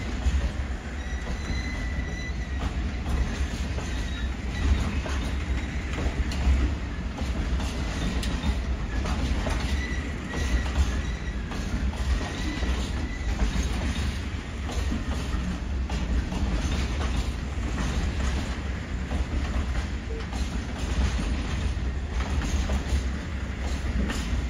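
Freight train of open box wagons rolling past on the rails: a steady low rumble with wheels clicking over rail joints, and brief high wheel squeals near the start and again about ten seconds in.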